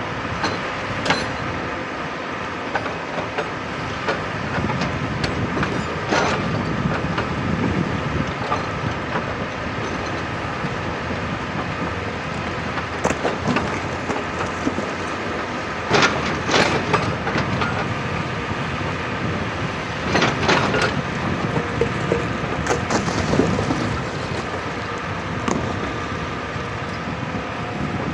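Excavator diesel engine running steadily under load, with scattered sharp knocks and clatters of rock against the bucket, bunched about halfway and two-thirds of the way through.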